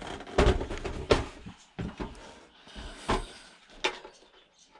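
A handful of separate knocks and clunks, a second or so apart, from objects being handled and set down during a scrap teardown.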